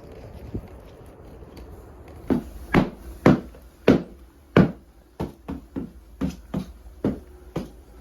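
A series of about a dozen sharp knocks, starting a couple of seconds in, first about half a second apart and then quicker.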